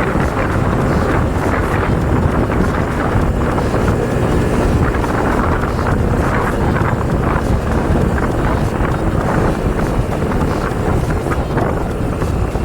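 Heavy wind noise buffeting the microphone of a moving motorcycle, with the engine running steadily underneath.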